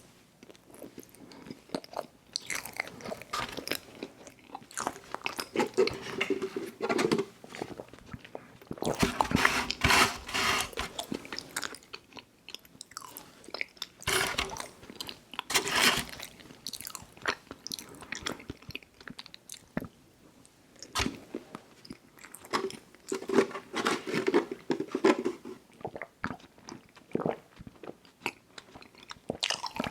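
A mouth chewing chewy fruit candies up close, with wet smacking and sticky clicks. The chewing comes in bouts with louder stretches and short lulls between them.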